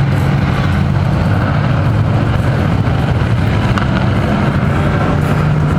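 A field of dirt-track Thunder Truck race trucks running together at slow pace-lap speed, a steady, loud engine drone with no rise or fall.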